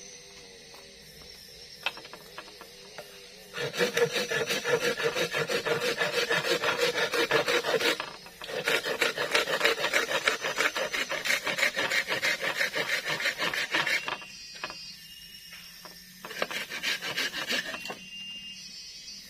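Rapid, rhythmic scraping or rasping strokes in three bouts: one of about four seconds, a second of about five and a half seconds after a brief pause, and a shorter one near the end.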